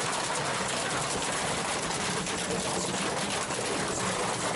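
A washing machine running hard, probably in a fast spin: a loud, steady mechanical din with a fast rattle.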